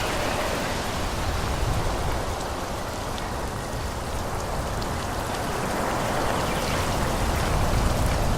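Forest ambience: a dense, steady rushing hiss over a low rumble, easing slightly a few seconds in and swelling again toward the end.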